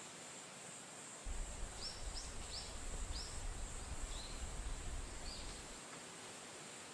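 About six short, high bird chirps spaced over a few seconds, over a steady outdoor hiss. A low rumble, like wind on the microphone, comes in about a second in and fades near the end.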